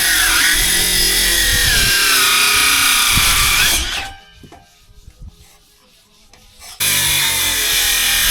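Power tool cutting timber: a loud motor whine with a dense cutting noise that dips in pitch as it bites into the wood, stopping about four seconds in, then starting again abruptly near the end after a quiet pause with a few small knocks.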